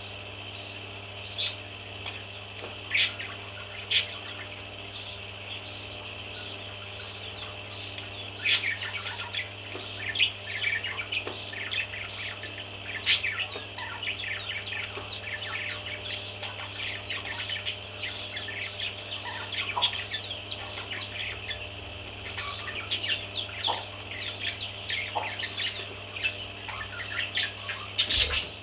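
Baby parrots chirping in many quick, high calls, sparse at first and almost continuous from about eight seconds in, with a few sharp clicks among them. A steady low hum runs underneath.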